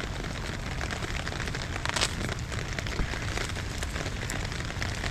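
Steady rain falling on a concrete driveway, a dense patter of drops, with one brief louder noise about two seconds in.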